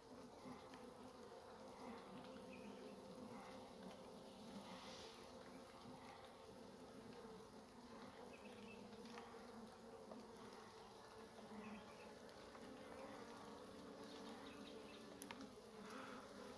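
Faint, steady hum of a honey bee colony buzzing around an open hive.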